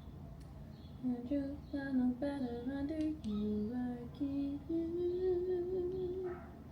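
A woman humming a short tune without words: a run of stepped notes that ends on a long held note.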